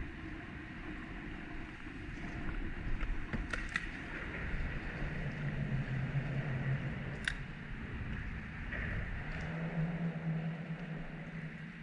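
Strong wind buffeting the microphone out on open water, a steady rumble with hiss over it. A few light clicks, and a low steady hum that comes in twice and fades.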